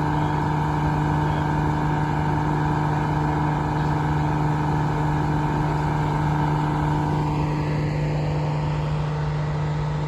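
Fire truck engine running steadily: a constant hum that holds one pitch, with no revving.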